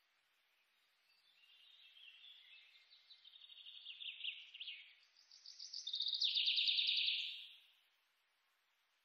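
Songbird singing in rapid chirping trills that grow louder, peak about six to seven seconds in, then fade out.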